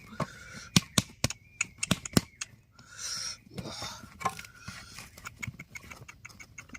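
A series of sharp knocks and clicks, several close together in the first two and a half seconds, among bursts of rustling and a few faint thin calls.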